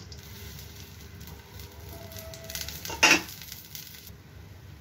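Oil sizzling with fine crackles under an oats chilla frying in a hot non-stick pan. There is one brief loud knock about three seconds in, and the sizzle cuts off about four seconds in.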